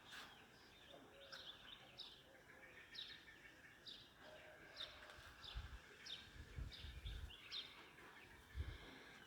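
A bird calling faintly and repeatedly: short, high chirps that slide downward in pitch, about one a second, stopping near the end. A few low thumps come in the middle.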